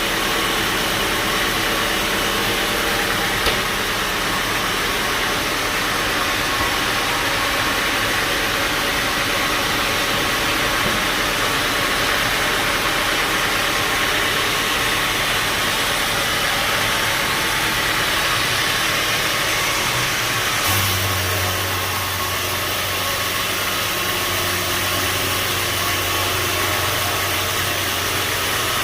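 Sawmill machinery running steadily, a loud even mechanical noise; about two-thirds of the way through a deeper steady hum joins in.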